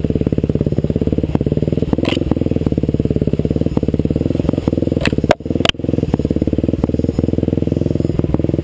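Off-road motorcycle engine running steadily, with an even, rapid firing beat that does not rev up or down.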